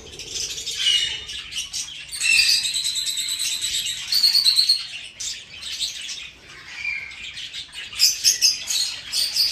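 Budgies chirping and chattering: a busy run of high-pitched calls, with louder flurries about two seconds in, about four seconds in and near the end.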